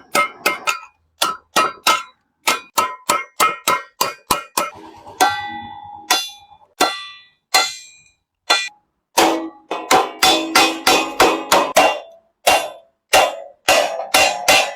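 Hand hammer striking sheet metal in a run of sharp, ringing blows, about two to four a second, coming faster and closer together about nine seconds in.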